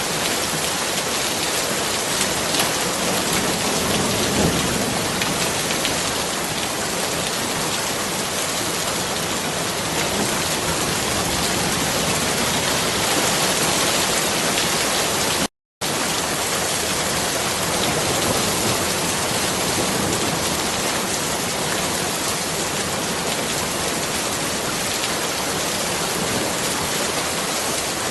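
Steady rain falling, a dense even hiss of drops. It cuts out completely for a split second about halfway through, then resumes unchanged.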